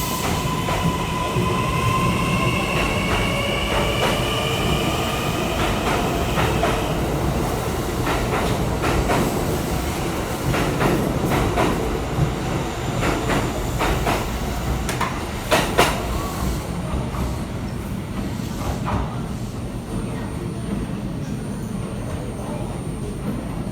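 Electric train pulling out of an underground station: the traction motors give a rising whine for the first several seconds, then the wheels click over rail joints and points as it gathers speed, the clicks thinning out near the end.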